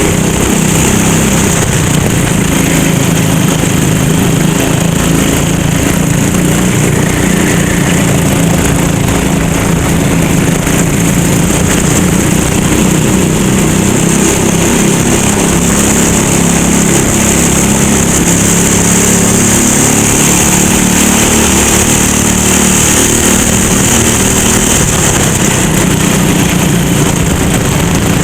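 Small go-kart engine running continuously at a high, fairly steady level, its pitch shifting a little up and down, with a steady high hiss over it.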